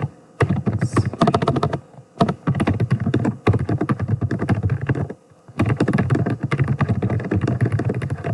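Rapid typing on a computer keyboard, key clicks in quick runs broken by two short pauses.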